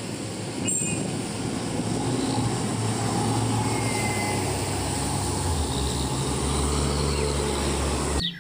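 Container truck's diesel engine running, a steady low drone under a noisy hiss, cutting off suddenly near the end.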